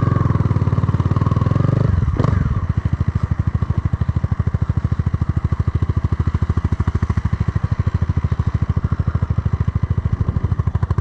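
Honda Grom's swapped-in CBR300R single-cylinder engine running, heavier for the first two seconds, then dropping back to a steady, even pulsing.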